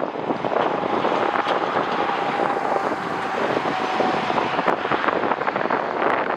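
Jet airliner engine noise mixed with wind buffeting the microphone, with a faint steady whine that fades out about four and a half seconds in.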